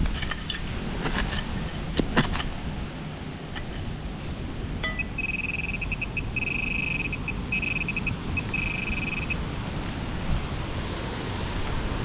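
Wind buffeting the microphone throughout, with a few sharp clicks in the first couple of seconds. About five seconds in, a metal detector's high-pitched electronic target tone sounds for about four seconds, first as quick pulses and then as longer beeps, signalling metal under the coil.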